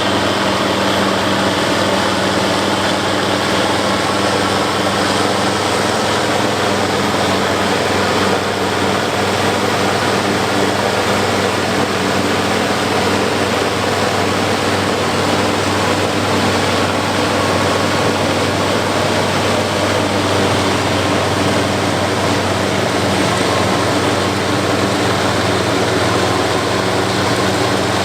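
International 1086 tractor's turbocharged six-cylinder diesel running steadily under load, driving a New Holland FP240 forage harvester as it chops corn. The harvester's chopping gives a dense, even rush over the engine's steady hum.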